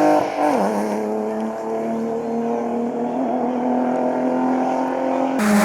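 Racing car engine running hard on a hillclimb course: its pitch drops sharply about half a second in, then holds and climbs slowly. Near the end the sound changes abruptly to a louder, brighter engine note.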